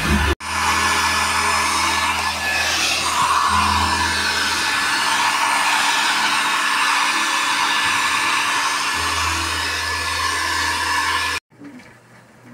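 Handheld electric hair dryer blowing steadily, drying freshly bathed puppies: an even rushing hum that cuts off abruptly near the end.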